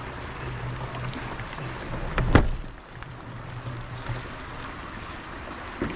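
Electric RC crawler truck driving along a wet trail, its motor humming steadily until about four seconds in. A loud thump about two seconds in, with a smaller one near the end.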